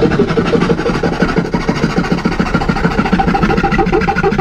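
Electric power tool running steadily on a marine-plywood panel, with a fast, regular pulsing beat.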